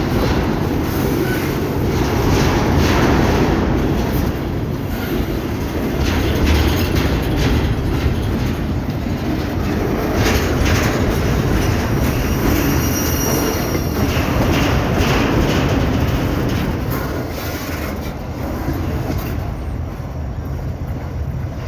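Train wagons rolling past on a bridge: a steady rumble with wheels clacking over rail joints and a thin, high wheel squeal briefly in the middle. The sound eases off a little near the end.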